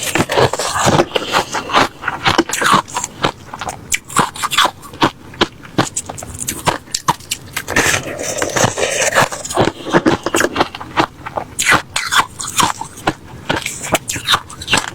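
Ice being bitten and chewed close to the microphone: a dense run of sharp, crackly crunches, with a longer grainy crunch about eight seconds in.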